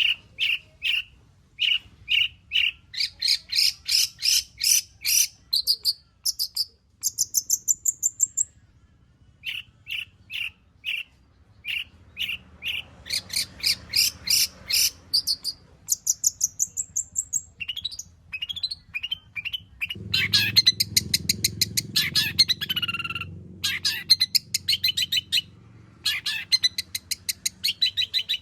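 Long-tailed shrike (cendet) singing a loud, varied song of rapid repeated notes, switching phrase every few seconds and packed with imitated calls of other birds. It pauses briefly about a third of the way in, then sings a faster, denser run of notes in the last third.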